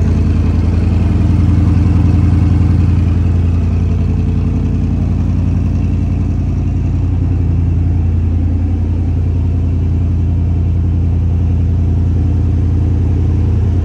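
Koenigsegg Regera's twin-turbo 5.0 L V8 idling with a steady, deep bass drone. It eases slightly quieter about three seconds in.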